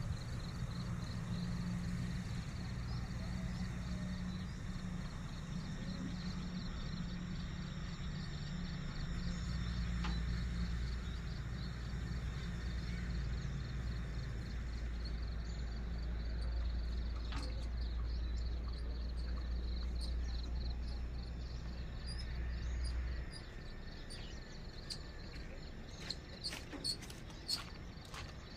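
Insects, crickets or similar, chirping steadily in a fast pulsing trill over a low rumble that cuts off abruptly near the end. A few sharp clicks follow.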